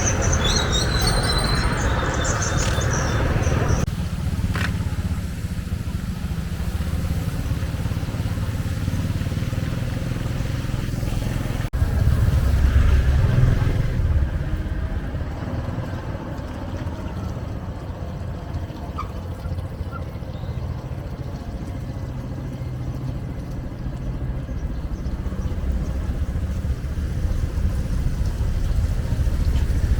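Steady low rumble of road traffic, mainly motorcycles, with a louder vehicle passing about twelve seconds in. High chirping in the first few seconds.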